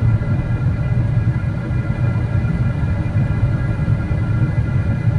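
Boeing 777-300ER cabin noise on the ground after landing: a steady low rumble with a faint, steady, high engine whine from the GE90 engines at idle.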